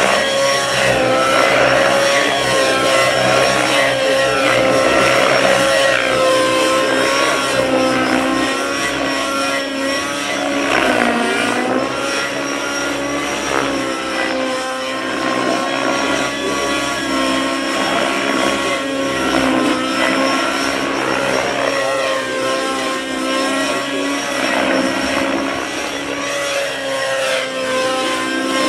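Radio-controlled model helicopter flying, its motor and rotors giving a steady high whine whose pitch wavers and dips briefly as it manoeuvres.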